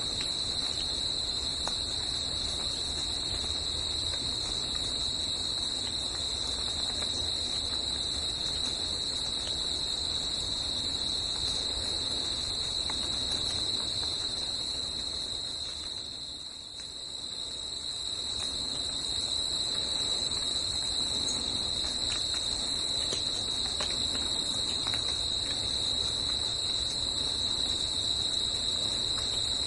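A steady, high-pitched chorus of insects in a forest, shrilling without a break over a low background hiss. Everything fades briefly about halfway through and then comes back.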